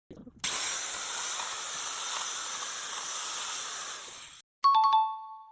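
Steady high hiss for about four seconds that cuts off abruptly, followed near the end by a short two-note chime that fades out.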